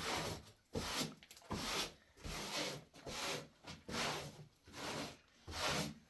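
Rhythmic rubbing strokes, about nine in a row at roughly three every two seconds, each about half a second long: something worked back and forth across a rough surface by hand.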